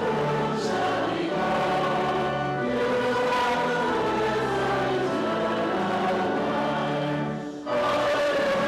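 Choir singing a sacred piece with sustained notes over steady low accompaniment, with a brief break between phrases about a second before the end.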